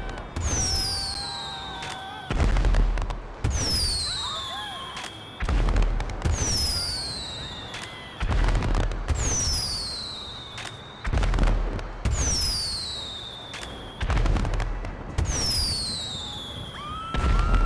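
Fireworks going off in a steady series: a sharp bang every one to three seconds, most paired with a high whistle that falls in pitch.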